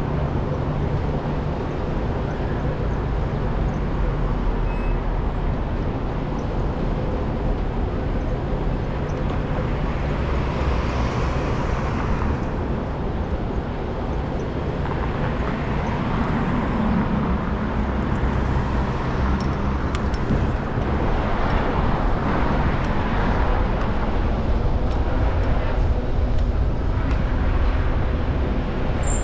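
Steady wind rumble on a moving action camera's microphone, mixed with city street traffic noise, during an e-bike ride.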